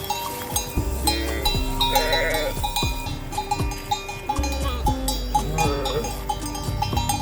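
A flock of sheep with bells clanking and ringing unevenly as they move, with a sheep bleating about two seconds in and again near the end.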